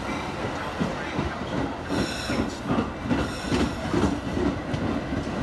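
A train rolling past, its wheels clattering over the rail joints several times a second, with a brief high wheel squeal about two seconds in.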